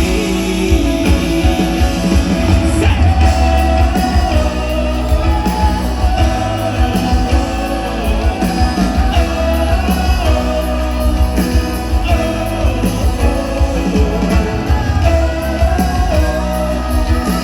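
Live rock band music played loud through a concert PA: drums, bass and electric guitar, with singing over it.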